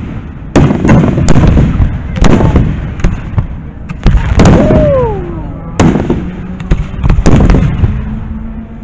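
Aerial firework shells bursting in the sky, about six loud booms in quick succession, each fading out before the next.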